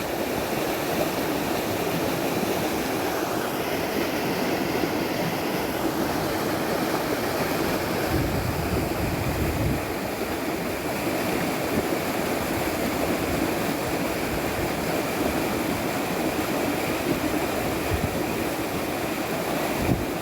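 Steady rush of flowing water, with a few low rumbles of wind on the microphone.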